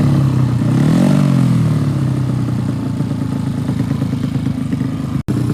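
Motorcycle engines running loudly. About a second in, one note sweeps up while another falls away, then a rough, steady engine sound carries on, with a momentary cut-out near the end.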